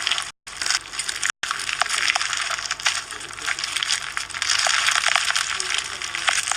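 Fishbowl slime, clear slime packed with small plastic fishbowl beads, being squeezed and worked by hand, the beads giving a dense crunching crackle with many small clicks. Two short silent breaks come in the first second and a half.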